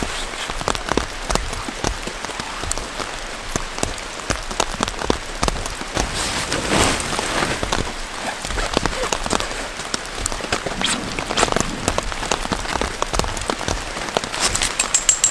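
Heavy rain falling steadily, with a dense patter of individual drops tapping sharply on a surface.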